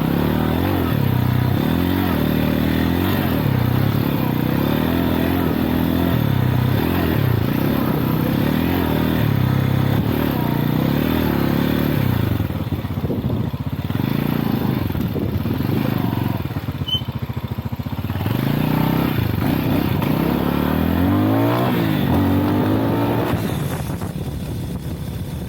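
Lifan Xpect motorcycle engine running under way, its pitch repeatedly rising and falling as the throttle is opened and eased off, with a dip and then a rev back up past the middle.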